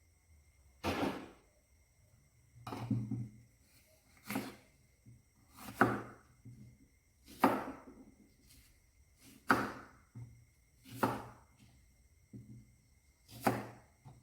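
A series of about nine short, sharp hits, roughly one every second and a half, each dying away quickly.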